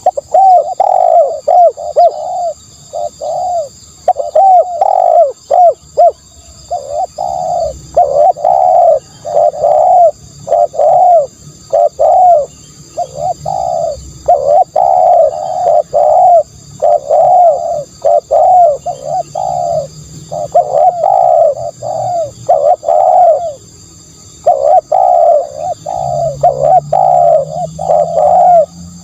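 Spotted dove cooing over and over: short, loud coo notes in quick runs, with a longer pause a little after the 23-second mark. A faint steady high-pitched hiss runs underneath.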